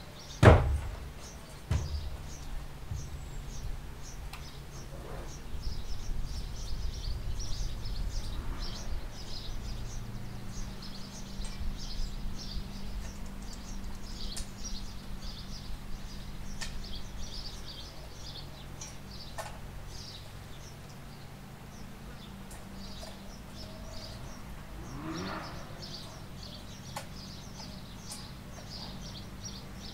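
Small birds chirping and twittering in quick, high notes throughout, over a low steady hum. A sharp knock about half a second in is the loudest sound, and a lighter one follows about a second later.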